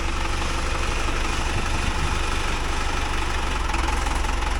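Tractor engine running steadily at idle, with no hammer strikes.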